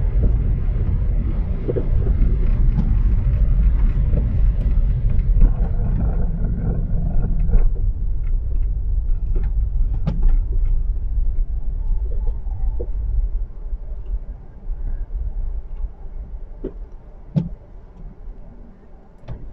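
Car cabin noise while driving on a snow-covered city street: a low steady rumble of engine and tyres. It grows quieter over the last several seconds, with a few faint knocks.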